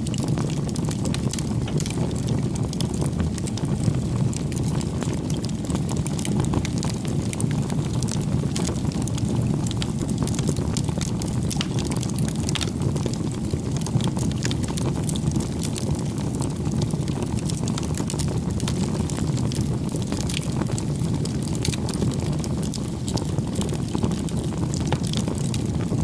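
Wood fire burning: a steady low rumble with frequent small crackles and pops.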